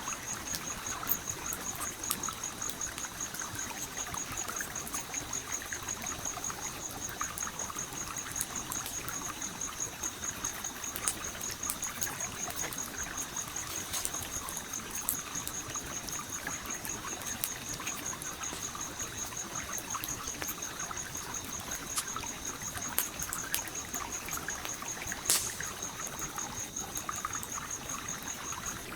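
A stream trickling and flowing steadily, with a wood campfire crackling and popping now and then; the sharpest pop comes about 25 seconds in. A continuous, finely pulsed high insect trill runs underneath.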